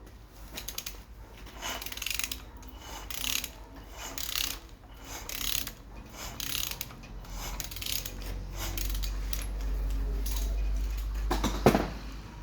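Repeated mechanical rasping and ratcheting strokes. A low steady rumble comes in about two-thirds of the way through, and a single sharp knock sounds near the end.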